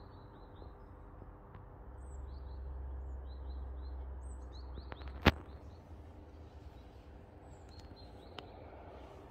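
Small birds chirping in short, high, repeated calls over a low outdoor rumble that swells for a few seconds. A single sharp click about five seconds in is the loudest sound.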